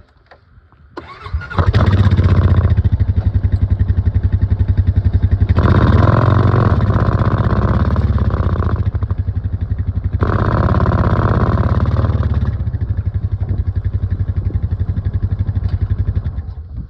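A motor vehicle's engine comes in about a second in and runs with a rapid pulsing note. It revs up twice, then drops away just before the end.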